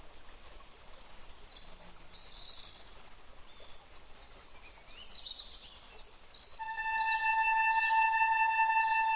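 An ambient composition: a steady noise bed with high bird-like chirps and short falling whistles. About six and a half seconds in, a sustained ringing tone with evenly spaced overtones swells in and holds.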